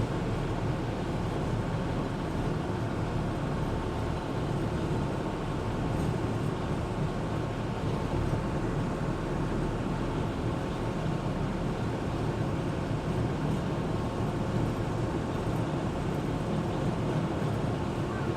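Engine of an amphibious Duck tour vehicle running steadily as it moves along on the water, a constant low rumble and drone.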